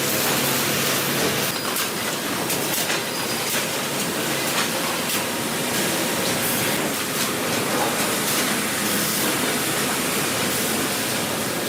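Sawmill machinery running with a steady rush of noise and frequent clacks and knocks, as timber is fed and cut on the saw line.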